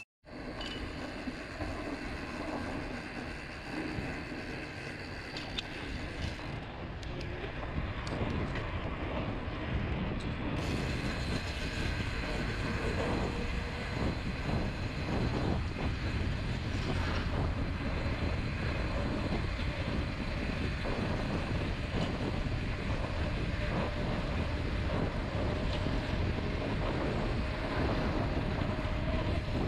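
Mountain bike rolling along a dirt trail: a steady rumble of tyres and the bike rattling, with wind noise on the microphone.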